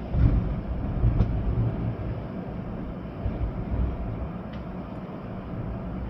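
Storm-force wind gusting with rain, a low, uneven rumble of wind buffeting the microphone over a steady hiss, with a couple of faint ticks.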